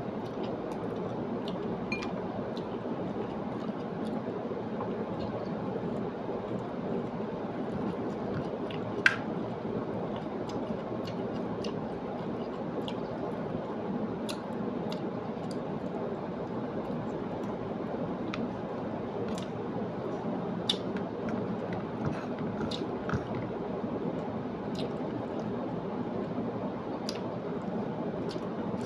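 A person chewing food with the mouth close to the microphone: scattered wet clicks and smacks over a steady low background hiss, with one sharper click about nine seconds in.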